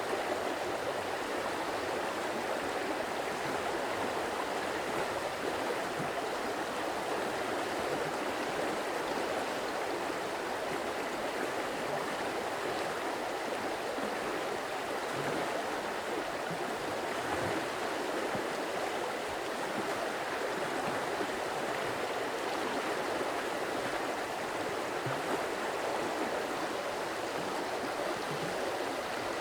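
Stream of water running steadily over rocks, a constant splashing and gurgling flow.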